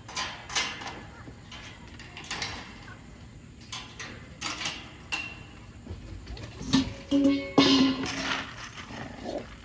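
Scattered, irregular knocks and clicks, with a brief pitched sound about three-quarters of the way in and faint music behind.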